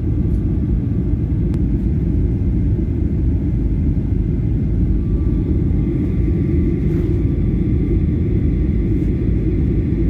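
Airliner cabin noise: a steady, even low rumble of engines and airflow, with a faint high whine coming in about halfway through.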